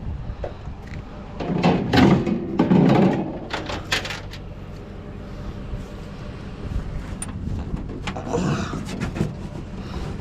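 Scrap metal clattering and knocking as pieces are handled and sorted, in two bursts, the first and louder about two seconds in and a shorter one near the end, over a steady low rumble.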